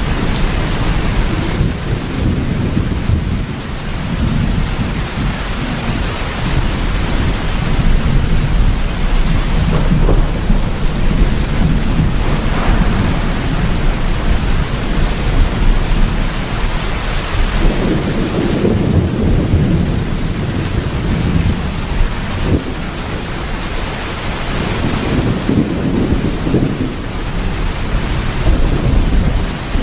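Steady rain with deep thunder rumbling underneath, the rumble swelling louder about two-thirds of the way through and again near the end.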